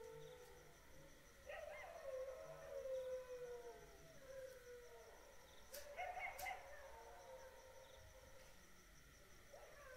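A dog howling faintly: long drawn-out howls that slide slowly down in pitch, one fading out at the start and another beginning about a second and a half in, with a shorter yelping burst around six seconds and a new howl starting near the end.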